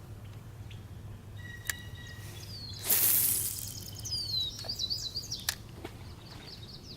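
A bird screeching from a tree: a loud harsh burst about three seconds in, then a quick run of high, down-slurred calls.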